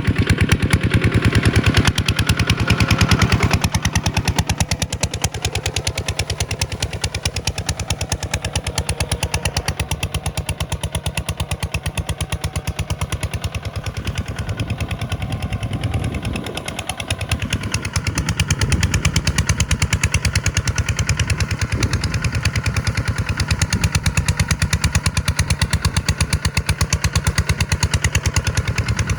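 Farm tractor's diesel engine running close by with a fast, even beat, dipping briefly about halfway through and then running steadily again.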